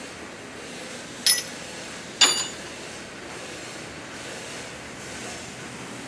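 Two sharp metal-on-metal clanks with a bright ringing tail, about a second apart, the second louder, over steady shop background noise.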